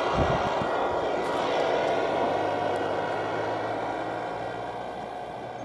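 Train passing, its steady rumble slowly fading as it moves away.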